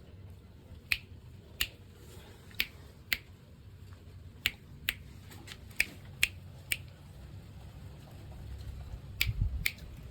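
About eleven sharp, single clicks at an uneven pace, a second or less apart, with a longer gap near the end, and a brief low rumble between the last clicks.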